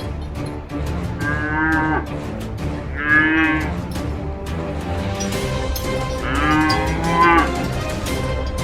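Cattle mooing three times, each call a drawn-out pitched moo, the last the longest.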